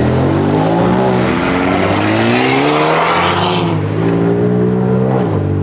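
Car engine revving: the pitch climbs over a couple of seconds, drops back, then holds at a steady higher rev before falling away near the end.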